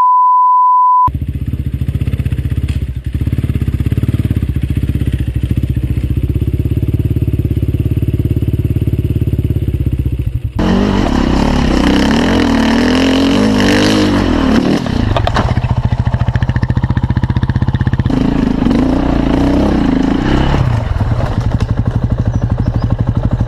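A one-second censor beep, then a motorcycle engine running with a fast, even firing pulse. From about ten seconds in, and again near the end, the engine revs up and down as it is ridden.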